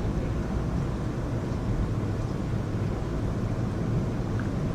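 Heavy rain falling in a night rainstorm: a steady, low, rumbling noise.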